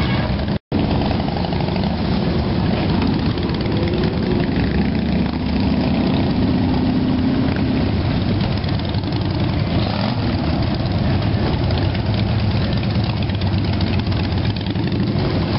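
Motorcycle engines idling and running steadily, the sound dense in the low end. The sound cuts out completely for an instant near the start.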